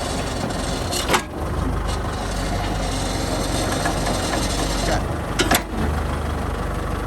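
Kubota M6040 SU tractor's diesel engine running steadily at a low idle. Two brief sharp clicks cut in, one about a second in and another about five and a half seconds in.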